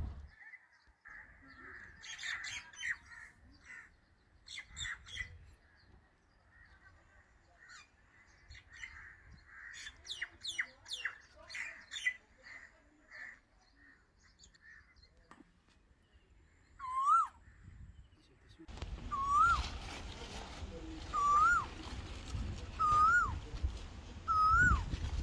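Wild birds chirping and singing, then, from about two-thirds of the way in, one bird giving a short call that rises and then drops, repeated five times at intervals of a couple of seconds, over a low rumble.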